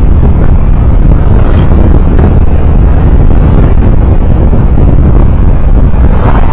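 Loud, steady road and wind rumble from a moving vehicle, with wind buffeting the microphone.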